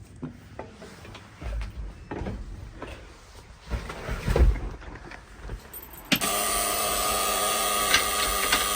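Several knocks and clunks, then about six seconds in the Kenworth's 6V92 Turbo Detroit Diesel, a two-stroke V6, cold-starts with a sharp click and goes straight into a loud, steady run.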